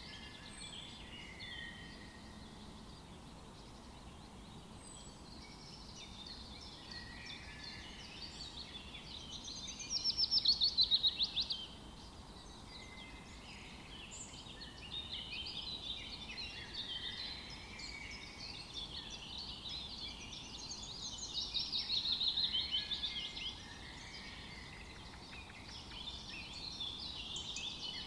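Forest birdsong: several birds chirping and singing over each other, with two louder rapid trills, one about ten seconds in and another about twenty-one seconds in.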